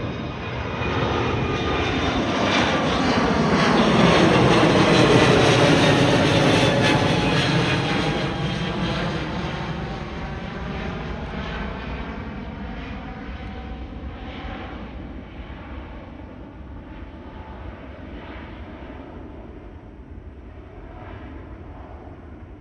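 Airbus A321neo's jet engines on an overhead departure climb-out. The sound builds to its loudest about five seconds in, sweeps down in pitch as the aircraft passes over, then fades slowly as it climbs away.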